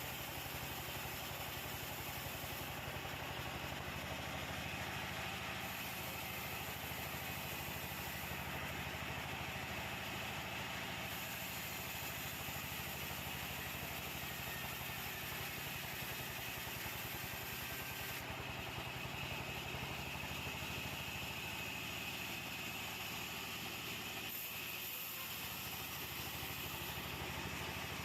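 A sawmill's engine running steadily at a constant speed, a continuous low hum with even overtones and a faint higher whine above it.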